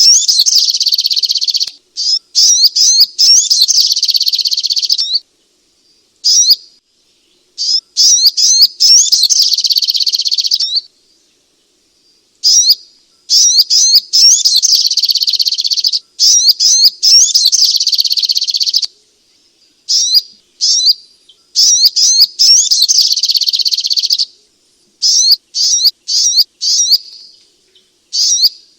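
Sogok ontong (little spiderhunter) singing in loud bursts of rapid, high chattering notes a second to a few seconds long, broken by short pauses.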